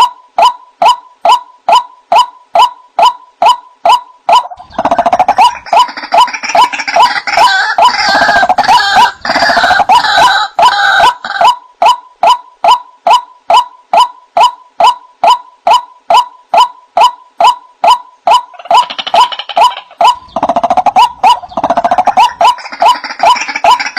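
White-breasted waterhen (ruak-ruak) calling: a steady string of evenly repeated notes, about two and a half a second. Rougher, noisier calls join over them from about five to eleven seconds in and again from about nineteen seconds in.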